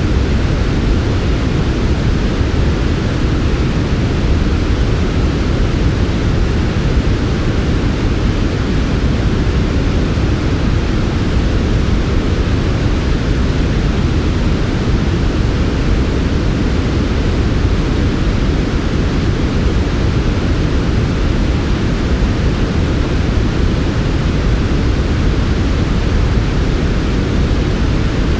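Continuous electronically generated sleep noise, steady and unchanging with no breaks or events. Its energy is weighted toward the low end, so it sounds like a soft, deep hiss rather than a bright one.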